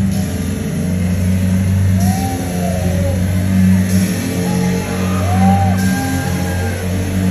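Live electropop song played loud through a club PA, with a heavy, steady bass and short sliding tones that rise and fall over it.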